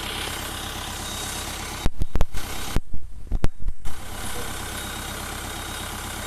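Tractor diesel engine running steadily with an even low throb. About two seconds in, a couple of seconds of loud thumps and rumbles cut across it.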